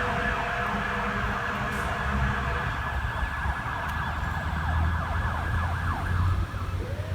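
Emergency vehicle siren wailing as the vehicle drives past, with a heavy engine's low rumble growing from about two seconds in. The siren fades out near the end.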